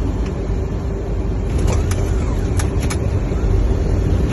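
Cockpit noise of a Boeing 737-800 on its landing rollout just after touchdown: a steady low rumble, with a few sharp clicks between about one and a half and three seconds in.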